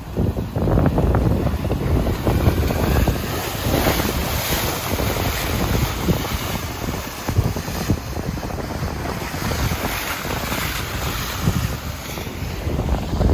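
Wind buffeting the microphone over the hiss of surf breaking and washing on the beach, with the hiss swelling twice.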